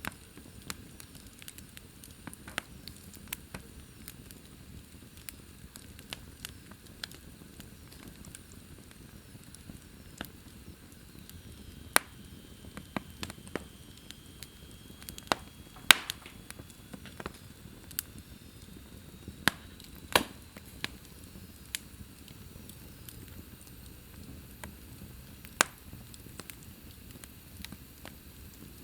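Wood fire burning in a fireplace, crackling with irregular sharp pops over a low steady rumble; the loudest pops come about two-thirds of the way through. A faint thin high whistle runs through the middle stretch.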